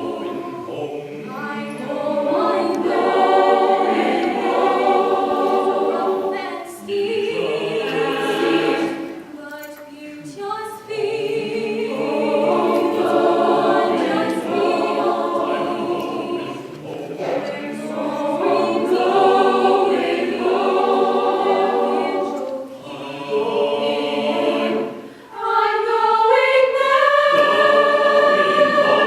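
A choir singing sustained chords in long phrases, with short pauses between phrases and a swell to a higher held chord near the end.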